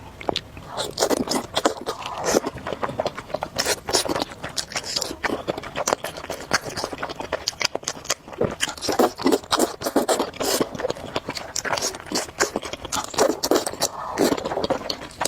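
Close-miked eating: a person chewing and biting food, with many quick, irregular mouth clicks and crunches.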